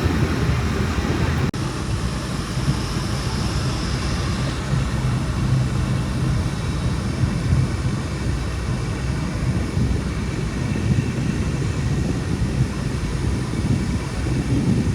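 Tour boat's engine running steadily: a low rumble with an even hiss over it, broken briefly about a second and a half in.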